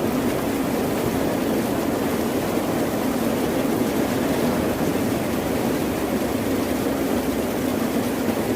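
Ocean surf making a steady, even roar, with no separate wave breaks standing out.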